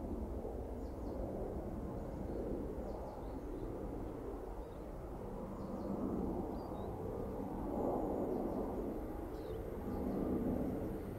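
Low rumble of an approaching KiHa 283 series diesel express train, swelling a few times as it nears, with small birds chirping.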